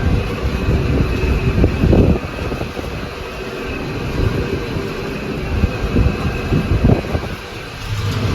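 McCormick MTX 150 tractor running, its engine tone steady, with two louder bursts of low rumbling, about two seconds in and again near seven seconds.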